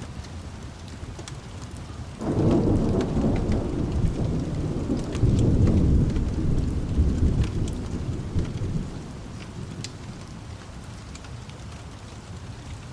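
A thunderclap breaking suddenly about two seconds in and rolling as a low rumble that swells again and fades out after several seconds, over steady rain. Small fire crackles tick through it.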